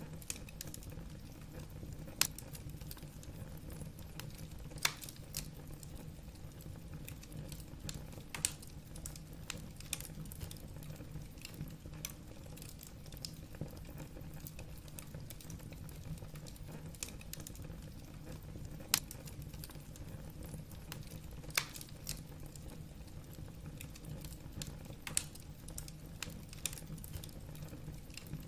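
Wood fire burning in a fireplace: logs crackling irregularly, with a handful of sharp louder pops scattered through, over a low steady rumble.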